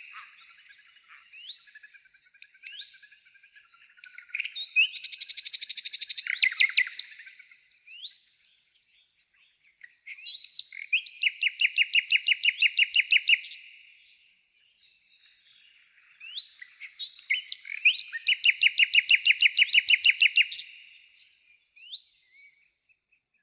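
A songbird singing in phrases of fast, evenly repeated trill notes, three loud trills in all, with short rising chirps between them.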